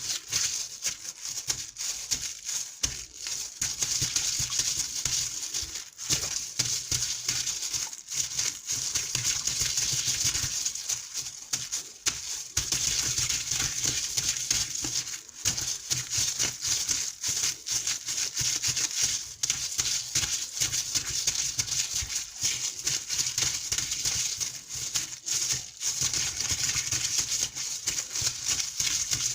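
Water running and splashing: a steady rushing, crackling hiss that dips briefly now and then.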